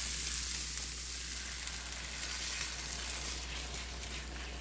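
Bacon, spinach, onion and pepper sizzling steadily in a frying pan, easing slightly after about a second, with beaten eggs poured in near the end.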